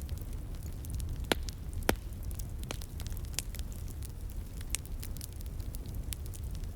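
Wood fire crackling, with irregular small snaps and two louder pops about one and a half and two seconds in, over a steady low rush of a flowing stream.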